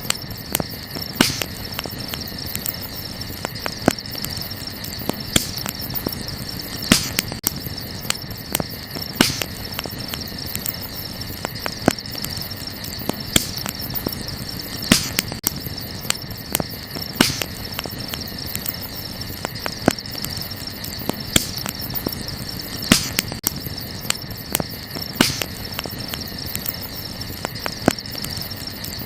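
Wood fire crackling, with sharp pops every second or two, over a steady high chorus of night insects.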